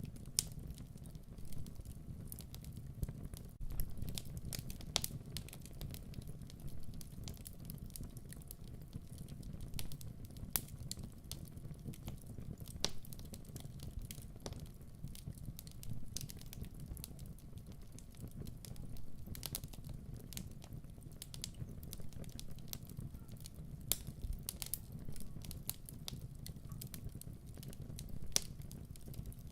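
Wood fire crackling in a fireplace: irregular sharp snaps over a steady low rumble of the flames.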